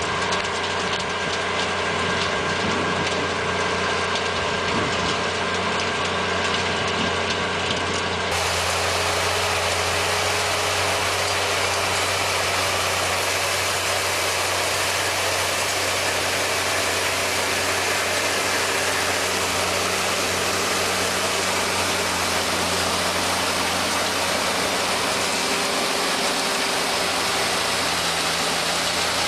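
Engine of farm machinery running steadily. About eight seconds in, the sound changes suddenly to a noisier, hissier machine sound.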